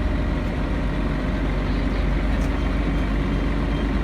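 Scania L113CRL bus's 11-litre six-cylinder diesel engine running steadily, heard from inside the cabin.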